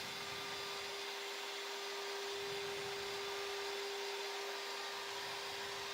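Boeing 737 flight-deck ambient noise during the approach: a steady rush of airflow with a constant steady hum underneath.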